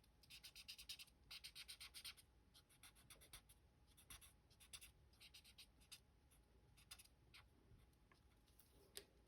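Faint, quick scratchy strokes of a Stampin' Blends alcohol marker colouring on cardstock. A dense run of strokes comes in the first two seconds, then scattered strokes follow.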